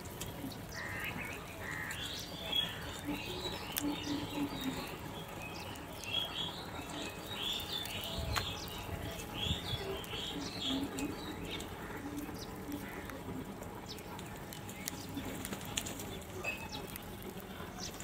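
Birds chirping faintly in quick, short, high calls, thickest in the first half, with a few sharp clicks here and there.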